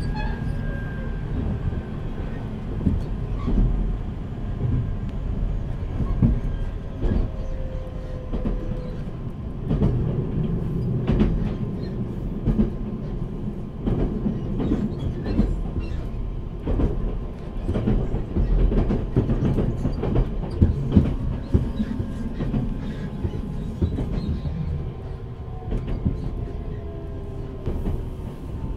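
Running noise heard inside a JR Central 383 series electric train's motor car: a steady low rumble from the wheels, with the clatter of rail joints and sharp clicks. Thin whining tones from the Toshiba GTO inverter and traction motors slide down in pitch now and then.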